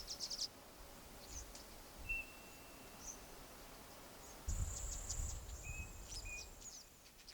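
Small birds calling in high, thin chirps and short whistles, with a longer buzzy high call about halfway through, over a low rumble.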